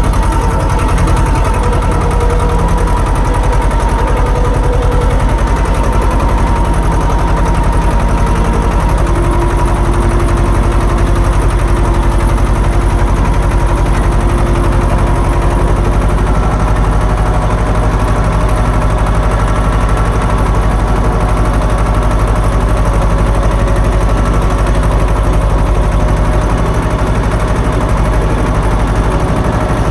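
Swaraj tractor's diesel engine running loudly and steadily at constant revs, with a fast, even firing beat.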